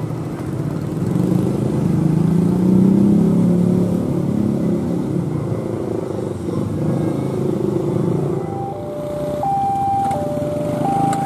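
Rumble of a passenger train's carriages rolling over the rails, swelling about two seconds in and then easing. From about eight and a half seconds in, a two-tone warning sounds, switching between a higher and a lower note about every half second, typical of a railway level-crossing alarm.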